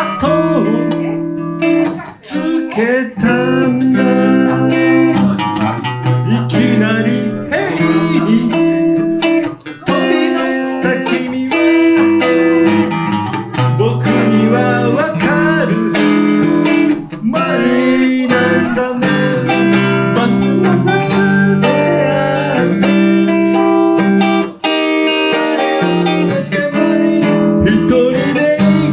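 Van Zandt Telecaster electric guitar through a Roland JC-120 amp, playing an instrumental break of a song: chords mixed with single-note lines and string bends.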